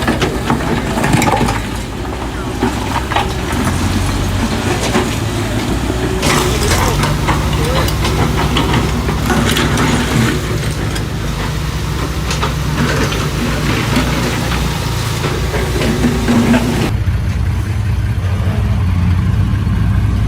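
Diesel engine of heavy construction machinery running steadily, with scattered knocks and clatter. The engine note strengthens about seven seconds in, and the sound changes abruptly near the end.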